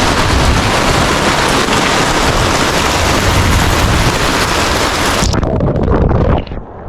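Heavy rain pouring down as a dense, loud hiss, with low rumbling wind on the microphone. About five seconds in, the hiss cuts off abruptly, leaving a quieter, duller sound.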